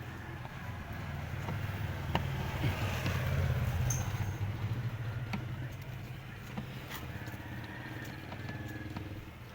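A low motor hum that swells to a peak about three seconds in and then slowly fades, with a few faint clicks.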